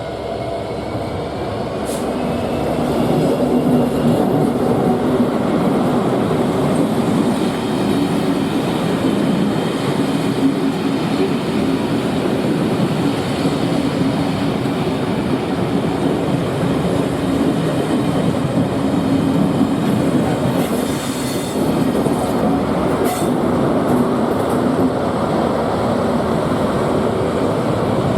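Freight train passing on the main line: a steady rumble and clatter of wagon wheels over the rails, with a few brief high screeches about three-quarters of the way through.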